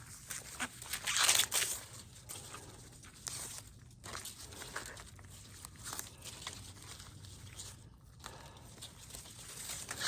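Corn stalks and leaves rustling and crackling as they are handled and pulled, with the loudest burst of rustling about a second in and smaller scattered rustles after.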